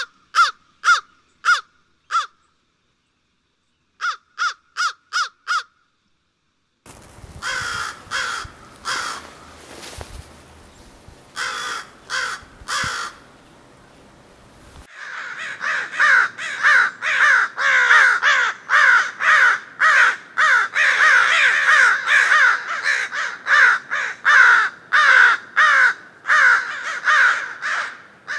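Crow cawing in quick runs of short, harsh calls, about two or three a second. The calls come in brief groups broken by abrupt dead silences at first, then as a long, unbroken run of loud caws through the second half.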